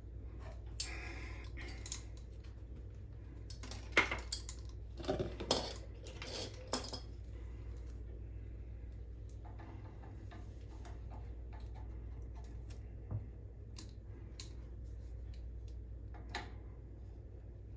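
Small hard objects, metal among them, clinking and clattering as they are handled, in a cluster of sharp knocks about four to seven seconds in, with scattered single clicks before and after, over a steady low hum.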